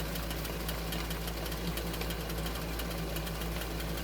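Steady low hum with a light, continuous crackle of food sizzling in the pan over low heat.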